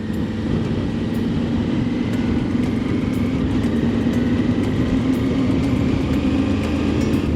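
Triumph Tiger 900 GT's three-cylinder engine running at a steady pace under wind and road noise while riding, the engine note creeping slightly higher as it goes.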